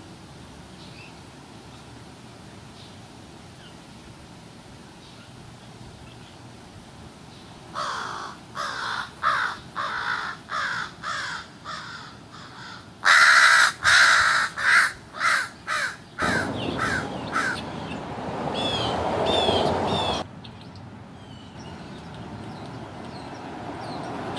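American crows cawing in a run of short, repeated calls starting about eight seconds in, loudest around the middle. A rushing noise joins near the end of the calling and stops abruptly, with a few higher chirps over it.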